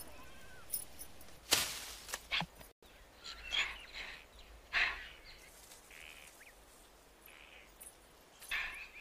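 Scattered bird calls and chirps from the film's outdoor soundtrack, with a short sharp noisy burst about a second and a half in.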